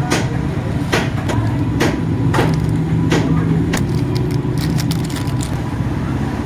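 Irregular sharp clicks and knocks of hand tools and engine parts being handled during work on a motorcycle engine's timing chain, over a steady low drone of passing traffic.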